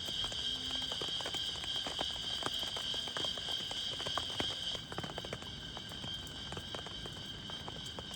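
A steady, high-pitched chorus of calling insects, its strongest tone fading about five seconds in. Scattered raindrops and drips tap irregularly throughout.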